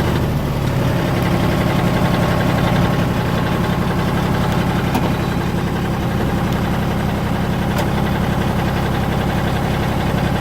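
John Deere 5400 tractor's three-cylinder diesel engine running steadily, with a few faint clicks now and then.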